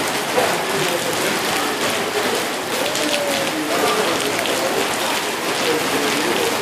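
Steady heavy rain falling and pattering on surfaces, with faint voices underneath.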